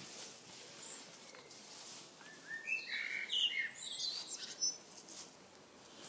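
A songbird singing one short phrase of varied whistled notes, starting about two seconds in and lasting a couple of seconds, over faint steady background hiss.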